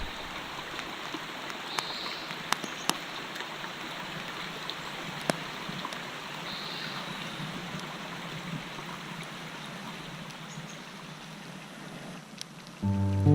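A small stream running steadily, with a few short sharp clicks in the first half. Guitar music comes in near the end.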